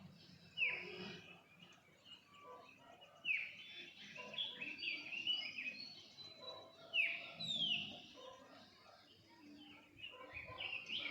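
Wild birds chirping and calling, with a few louder, sharp calls that sweep quickly down in pitch standing out four times among softer chirps.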